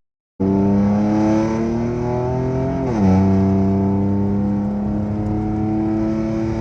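Infiniti Q50's 3.0-litre twin-turbo V6 (VR30) with a straight-piped exhaust, under light throttle. It starts after a brief gap and rises slowly in pitch. About three seconds in the pitch drops in an upshift, then it pulls on steadily.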